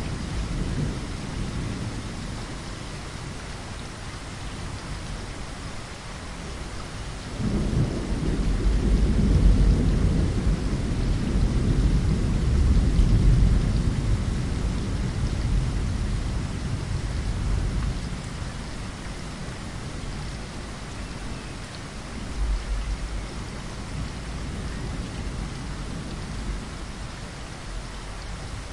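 Steady rain falling against a window, with a roll of thunder that breaks in sharply about seven seconds in, swells and fades away over some ten seconds; a fainter rumble of thunder comes later.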